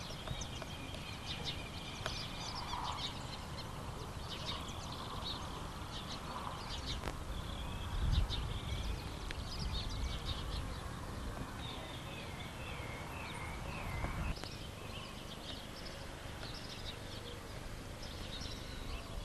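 Many small birds chirping and calling, with short high chirps throughout and a run of wavering calls near two thirds of the way in. Two brief low rumbles of wind on the microphone come about 8 and 14 seconds in.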